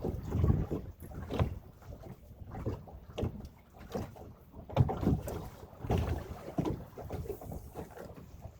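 Choppy water slapping and knocking against the hull of a small boat in irregular surges, with wind buffeting the microphone.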